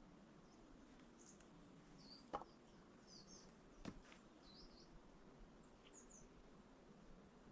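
Near silence with faint, high chirps of small birds scattered throughout, and two soft knocks, about two and a half and about four seconds in.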